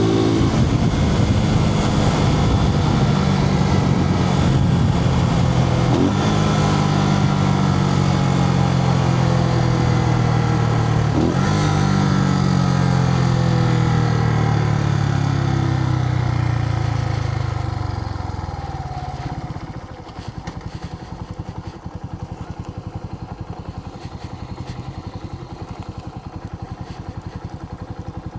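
Suzuki TU250X's air-cooled single-cylinder engine pulling through the gears, its pitch climbing and dropping back at upshifts about 6 and 11 seconds in. The pitch then falls as the bike slows, and about 20 seconds in it settles to a quieter idle. Heard through a microphone inside the rider's helmet.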